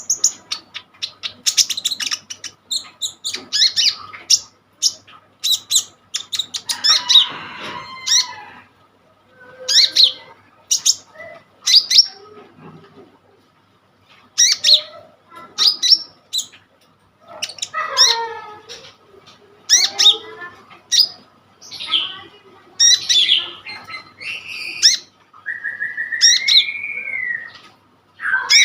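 A kolibri ninja sunbird singing vigorously, a fast string of sharp, high chirps and trills with short pauses. About seven seconds in comes a buzzy, rasping phrase, and near the end a rising-then-falling whistle.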